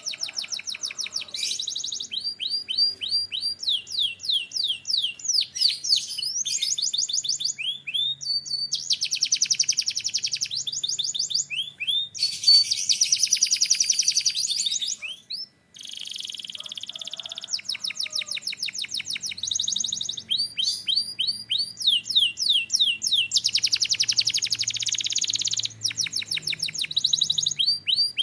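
Domestic canary singing a long, loud song of fast-repeated note series, trills and quick falling sweeps, each series switching to a new phrase, with a brief pause about halfway through.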